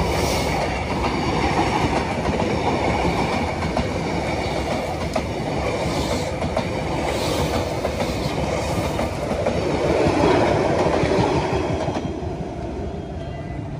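Passenger coaches of a Vietnamese train rolling past close by, wheels clattering on the rails. The sound swells about ten seconds in, then drops away near the end as the last coach passes and the train moves off.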